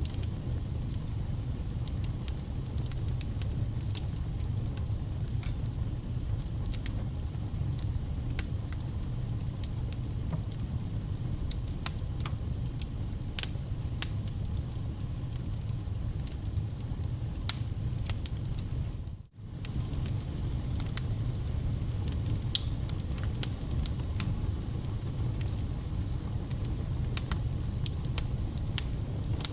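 Burning firewood: a steady low rumble of flame with frequent irregular crackles and pops. The sound cuts out for a split second about two-thirds of the way through.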